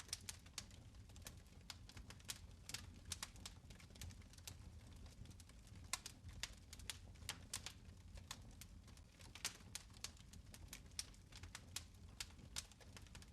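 Fireplace fire crackling: irregular sharp pops and snaps, a few a second, over a steady low rumble.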